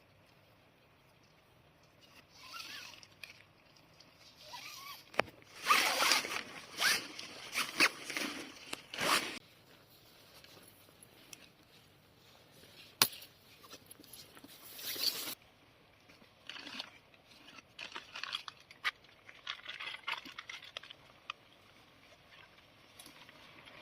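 A zipper pulled in several quick strokes, with scraping and rustling of gear being handled, then a single sharp click about halfway through and lighter handling noises after it.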